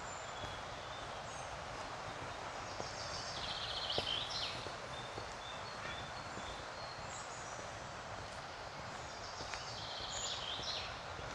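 Steady rush of river rapids, with a forest songbird singing two short bursts of song, about three seconds in and again near the end.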